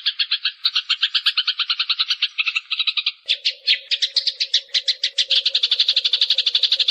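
Eurasian tree sparrows chirping in fast, unbroken chattering runs of about eight to ten chirps a second, with a steady low hum joining about three seconds in.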